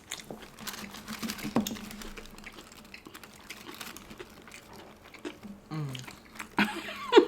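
Close-miked chewing and mouth sounds of people eating fried chicken: soft wet smacks and small clicks, with one sharper click about a second and a half in. A short vocal sound comes near the end.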